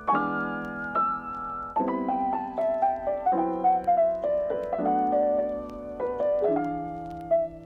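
Background piano music: sustained chords struck about every second or so, with a slow melody moving above them.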